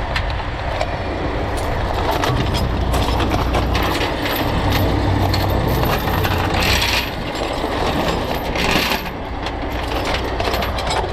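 Heavy truck's diesel engine running steadily under a low drone, with frequent sharp metallic clinks and rattles over it.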